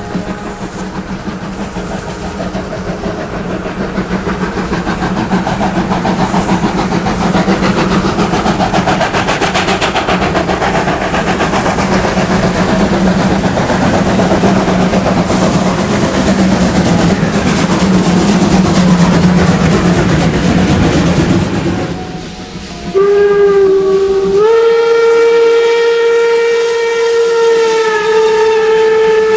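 Steam locomotive running past with rapid exhaust beats and rail noise, growing louder. About three quarters of the way through, its steam whistle sounds in one long, steady blast.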